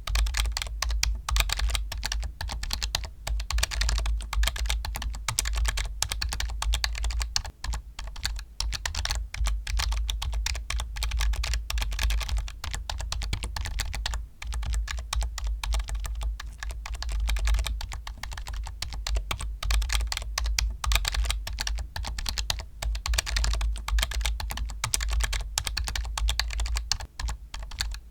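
Computer keyboard being typed on quickly and continuously, a dense run of key clicks with a steady low hum underneath.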